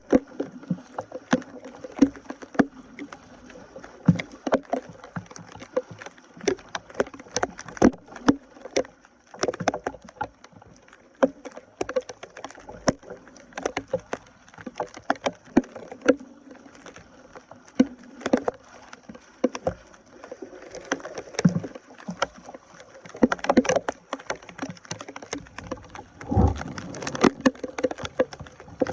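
Irregular knocks, snaps and splashes, two or three a second, of sticks and debris being pulled and broken loose from a clogged drain in standing water. A louder cluster comes near the end.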